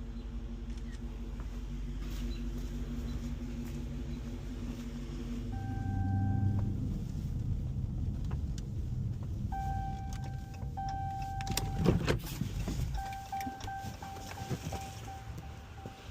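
Car engine running with a steady hum, then a dashboard chime beeping in repeated short tones, with a sharp knock about twelve seconds in.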